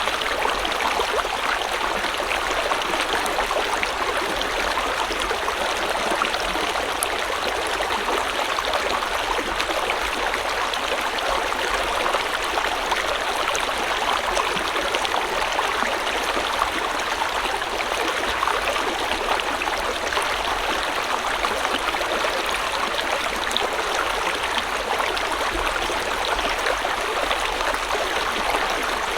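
River or stream water flowing steadily over rocks, a continuous rushing and babbling with fine splashing detail.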